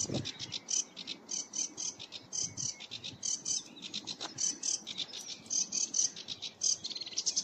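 A reedbed warbler (Acrocephalus) singing a long, unbroken chattering song of quick, scratchy notes repeated in short groups, with a faster run of notes near the end.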